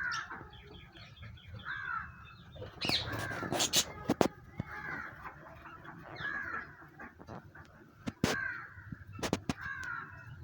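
Pet parrots giving short, harsh repeated calls every second or two, with a few sharp knocks in between, twice in the clip.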